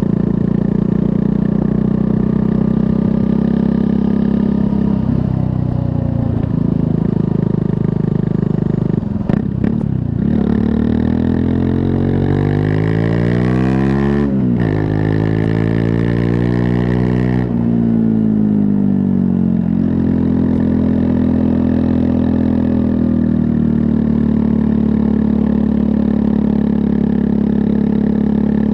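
Triumph Scrambler 400 X's 398 cc liquid-cooled single-cylinder engine running under way. Its revs climb and drop several times between about 9 and 20 seconds in, with short breaks in the sound, then it settles into a steady run.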